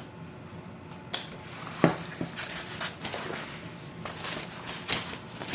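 Hard clicks, knocks and light rattling of playpen parts being handled and fitted together, with a few sharper snaps among many small ticks.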